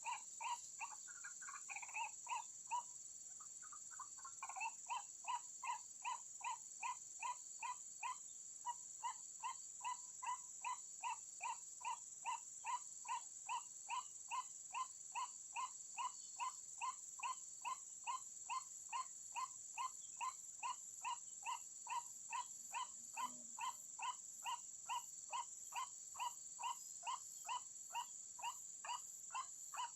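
White-breasted waterhen (ruak-ruak) calling. A few irregular notes come first, then a fast, even series of short, hoarse calls, about two and a half a second, with a steady high-pitched tone behind them throughout.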